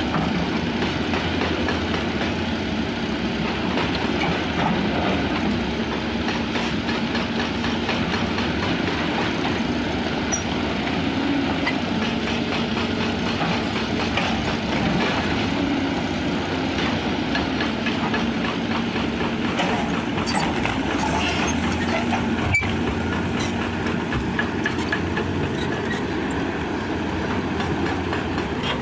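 Heavy machinery, most likely an excavator, with its engine running steadily under many small clanks and rattles of metal, and one sharp knock about three-quarters of the way through.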